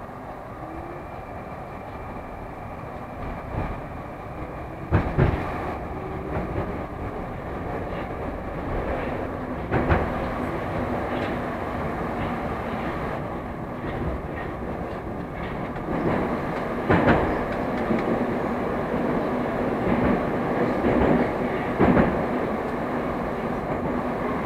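Moscow Metro train running through the tunnel, heard from inside the carriage: a steady rumble and hiss from the wheels and motors that grows louder over the first several seconds as the train gathers speed. A sharp knock comes every few seconds as the wheels cross rail joints.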